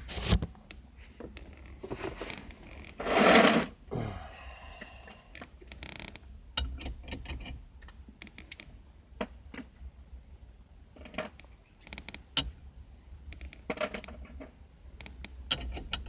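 A wrench turning the centre bolt of a harmonic balancer puller to press a steering wheel off its shaft: irregular metal clicks and clanks of the tool and puller. There is one louder burst of noise, lasting under a second, about three seconds in.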